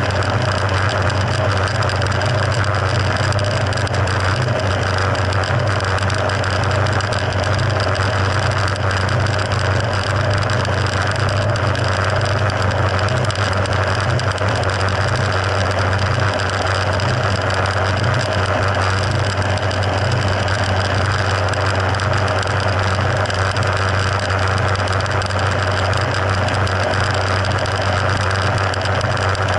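Mercury F60 four-stroke 60 hp outboard motor running at a steady speed, with an even hum that neither rises nor falls.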